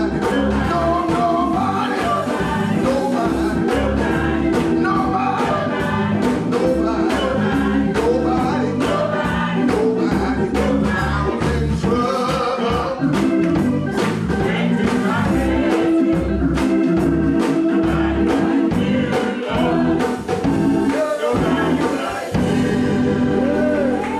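Gospel church choir singing with band accompaniment over a steady beat; the music thins out near the end.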